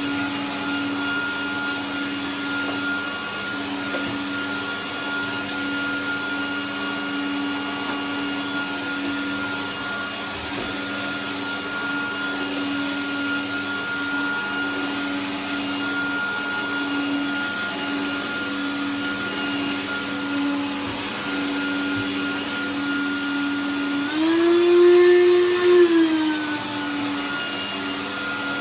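Hoover Turbopower 2 1000 bagged upright vacuum cleaner running steadily on carpet, its motor giving a constant whine. Near the end the motor pitch rises and the sound gets louder for a couple of seconds, then settles back to the steady level.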